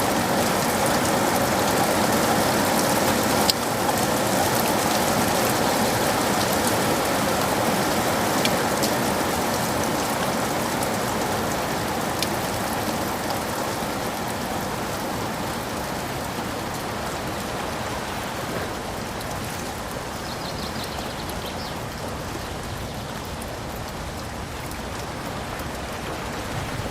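Steady rainfall pattering on surfaces, with a few distinct drops, easing slightly toward the end.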